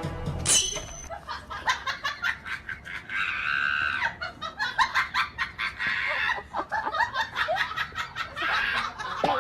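People laughing hard in rapid bursts, with a short high squeal about half a second in.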